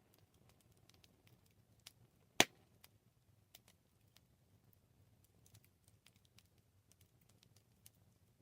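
Wood fire crackling: sparse small snaps and ticks over a faint low rumble, with one sharp, much louder pop about two and a half seconds in.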